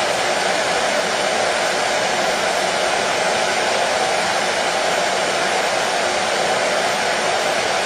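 Hair dryer running steadily, a constant even whoosh of blown air and motor with no change in pitch or level, used as white noise.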